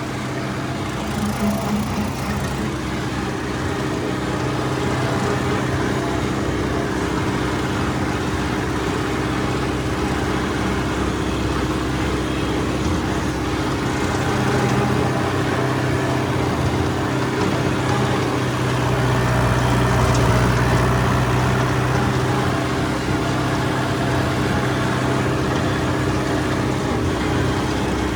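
Farm tractor engine running steadily, a little louder for a couple of seconds about two-thirds of the way through.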